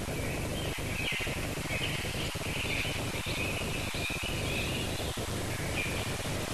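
Birds chirping and twittering on and off over the steady hiss and low hum of an old film soundtrack.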